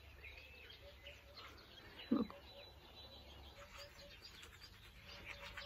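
Faint birdsong, with several birds chirping and twittering, and a brief, louder low sound about two seconds in.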